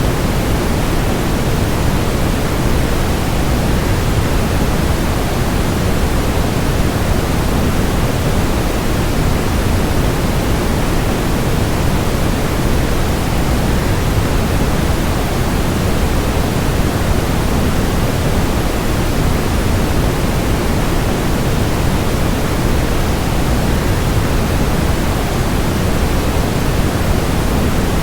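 Steady, even rush of a waterfall blended with generated white noise, heavier in the low end.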